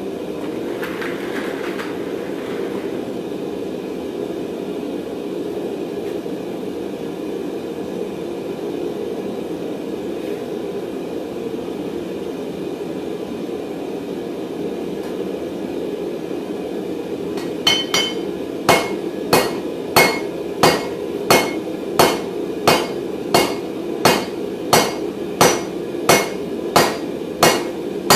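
A steady low roar, then from about two-thirds of the way in a hand forging hammer striking hot mild steel bar on an anvil, ringing blows at an even pace of about one and a half a second.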